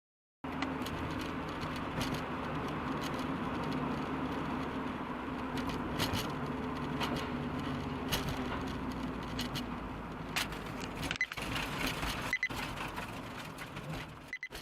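Car engine and road noise, a steady hum, with scattered light clicks and rattles and a couple of short high pips late on.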